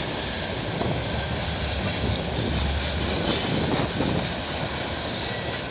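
Freight cars of a passing CN freight train rolling by: a steady rumble of steel wheels on the rails, growing heavier for a second or so mid-way.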